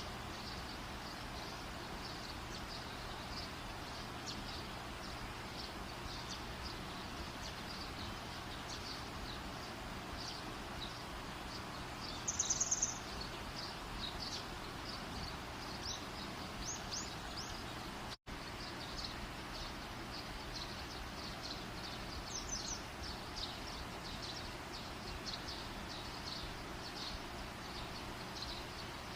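Steady outdoor background noise under a stream of short, high chirps, with one louder rapid trill about twelve seconds in. The sound cuts out for an instant about eighteen seconds in.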